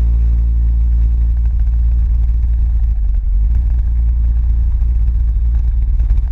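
A motor vehicle's engine holds a steady pitch after accelerating, then fades under a loud, low rumble of wind and road noise as it cruises.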